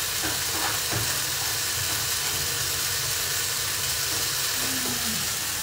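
Sliced mushrooms and artichoke hearts sizzling steadily as they brown in a frying pan.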